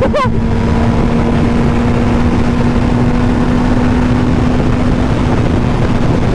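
Yamaha R1 inline-four engine held at a steady cruising pitch, under heavy wind rush on the rider-mounted microphone.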